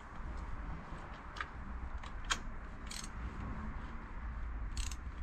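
A few scattered light metallic clicks and taps of a spark plug tool as a new spark plug is worked into its hole in the cylinder head, trying to get it to seat and bite on the thread, over a low steady background hum.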